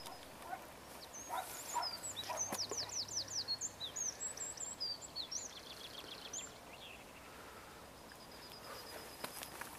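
A small songbird singing a varied run of quick whistled notes and fast trills, ending in a thin, even series of high repeated notes.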